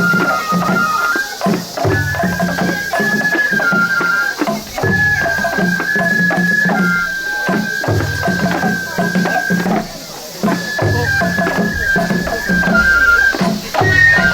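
Japanese festival hayashi for a lion dance: a bamboo flute plays a held, stepping melody over steady taiko drum beats. The drums drop out briefly a little past the middle.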